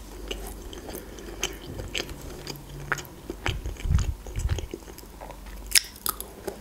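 Close-miked chewing of fried chicken liver, with scattered wet mouth clicks. There are a few low knocks about three and a half to four and a half seconds in, and a sharp click near the end.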